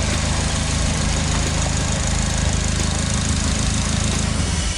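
Polaris Slingshot's four-cylinder engine idling steadily, run with fresh oil after an oil change; the sound cuts off suddenly near the end.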